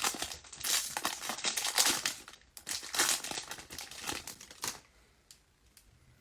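Plastic wrapping on a baseball card hobby box or pack being torn and crinkled in uneven bursts, stopping suddenly nearly five seconds in, followed by a couple of faint ticks.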